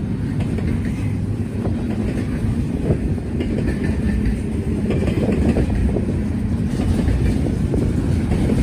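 Freight train rumbling along the rails, a steady low rumble with faint irregular clicks from the wheels.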